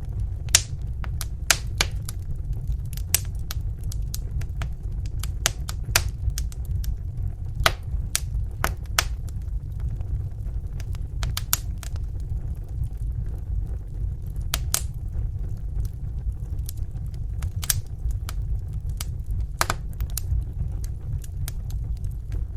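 Wood fire in a fireplace crackling: irregular sharp pops and snaps, a few a second, over a steady low rumble of the flames.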